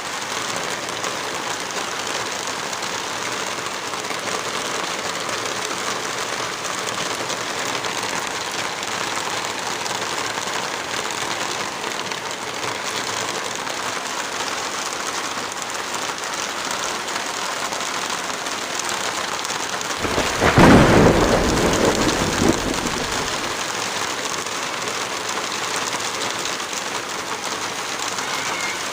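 Steady, heavy rain falling, with one loud clap and rumble of thunder about two-thirds of the way through that fades over about three seconds.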